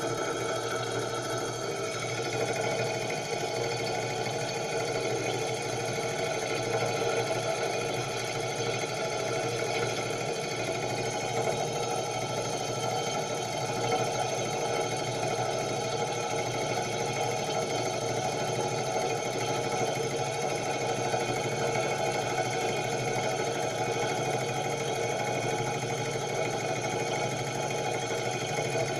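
Homemade laminar flow hot air engine running steadily.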